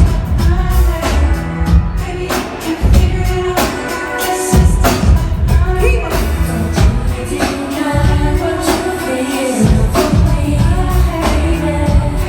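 Live R&B concert music: a singer's voice over a loud band or backing track with a heavy bass line and a steady drum beat.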